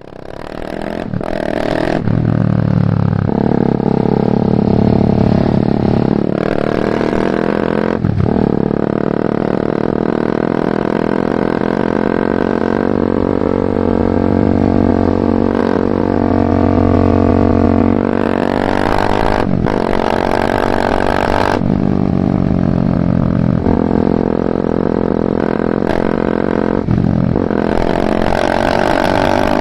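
BMW G310R's single-cylinder engine through a full Mivv aftermarket exhaust, ridden under way. It fades in at the start, and the engine note repeatedly climbs in pitch under acceleration and drops sharply at each gear change, about nine times.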